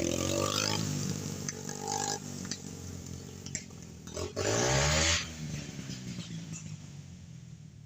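Dirt bike engine revving: the pitch falls back early on, then a sharp rev climbs about four and a half seconds in and drops away. After that the engine sound fades steadily quieter toward the end.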